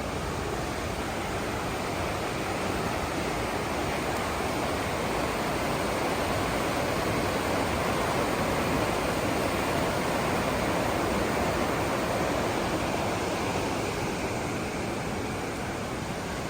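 Waterfall's falling water making a steady, even rush, a little louder in the middle.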